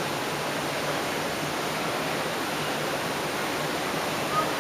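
Steady rushing of falling water, with a short high note near the end.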